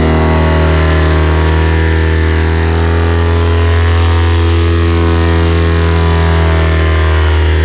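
Paramotor engine and propeller running at a steady throttle, holding an even pitch.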